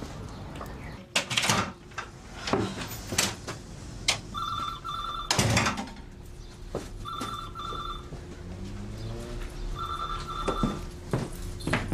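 Telephone ringing in the British double-ring pattern, three pairs of short rings starting about a third of the way in. Before the ringing there are knocks and a loud thump, the front door shutting.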